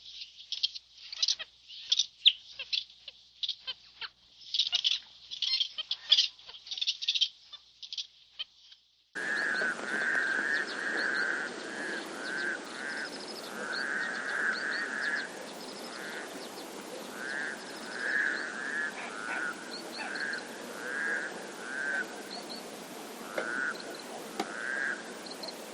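Animal calls: rapid, high-pitched squeaks in quick bursts, then, after an abrupt cut about nine seconds in, repeated short chirping calls over a steady hiss.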